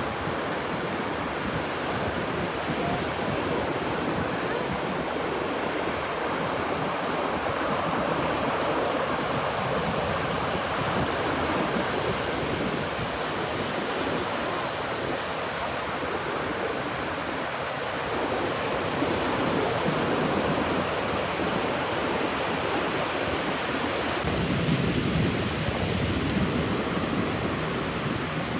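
Steady wash of ocean surf with wind on the microphone; a lower rumble joins in near the end.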